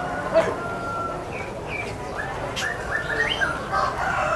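Many birds chirping and calling over one another, a busy run of short rising calls and brief held notes.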